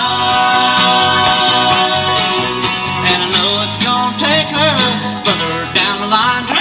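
Bluegrass band playing, with banjo and guitar picking. A long held note runs through the first few seconds, then wavering melody notes follow.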